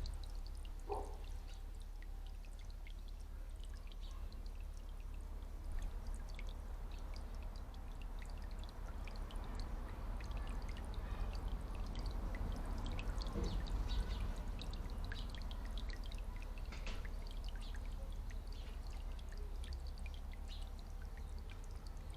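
Water trickling and splashing in a garden bird bath, with many small light ticks and splashes over a steady low rumble.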